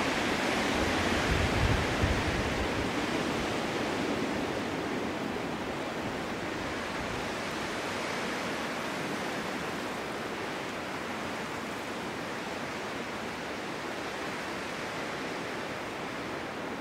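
Wind blowing steadily in a snowstorm, a stronger gust with a low rumble about one to two seconds in, then easing slightly.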